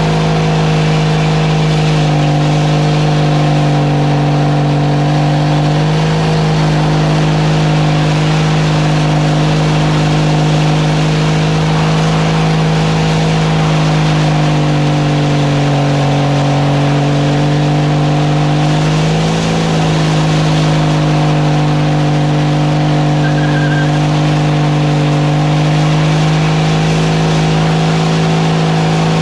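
A motor vehicle's engine running at a steady speed, its pitch sagging slightly twice and coming back up.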